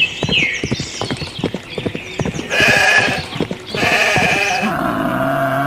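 A rapid run of clicking taps for the first two seconds or so, then two bleating calls about a second apart and a lower, drawn-out call near the end.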